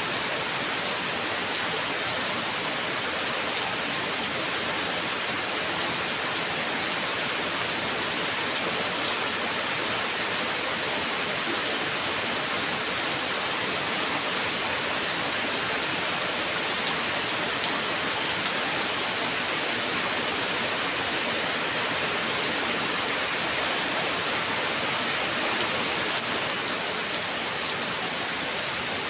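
Heavy rain falling steadily, a dense even hiss of drops hitting surfaces, with no distinct thunder clap.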